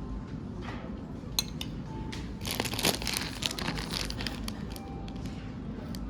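Crinkling and rustling handling noises with scattered sharp clicks, busiest about halfway through.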